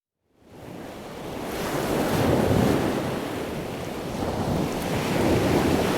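Sea waves washing in, a steady rushing that fades in at the start and swells twice.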